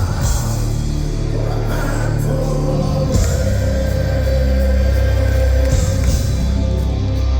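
Live heavy metal band performance: sung vocals over distorted electric guitar, bass and drums, recorded from the audience.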